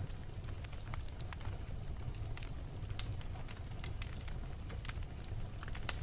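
Wood fire burning in a fireplace: a steady low rumble with irregular crackles and pops from the burning logs, a sharper pop about three seconds in and another near the end.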